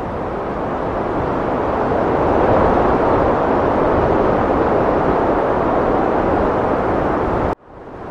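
Heavy wind blowing steadily, swelling over the first couple of seconds, then cutting out suddenly near the end and coming back a little quieter.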